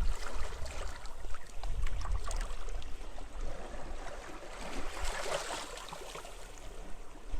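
Small sea waves lapping and splashing at the shoreline, with a swell of wash about five seconds in, over a low rumble of wind.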